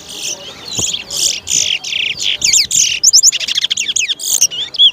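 Towa-towa seed finch singing in a song race: a loud, rapid run of chirps and whistled notes, turning into quick up-and-down sweeping trills past the middle.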